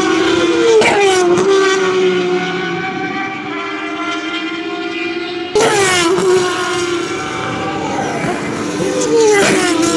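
Turismo Carretera race car engines at high revs, the pitch climbing and falling with gear changes. Through the middle one engine holds a steadier note, then a louder engine cuts in suddenly about halfway through.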